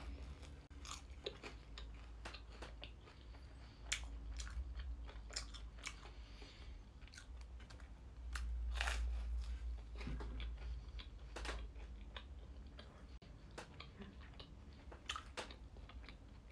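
Close-up bite into toast spread with strawberry jam, then chewing with many small, irregular crunches of the toasted crust. A low muffled rumble swells under the chewing about eight seconds in.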